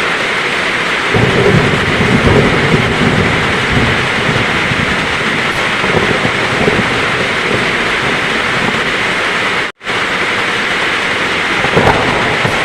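Heavy rain falling steadily, with a roll of thunder that swells about a second in and fades away over a few seconds, and a softer rumble near the end. The sound cuts out for an instant just before ten seconds in.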